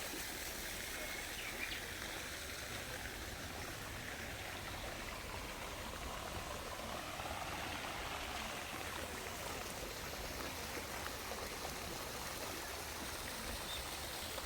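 Steady rush of running water, like a stream or trickling water feature.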